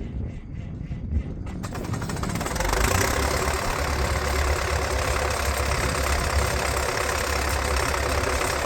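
A diesel engine starting up readily about two seconds in and settling into a steady idle, firing right up in cold weather.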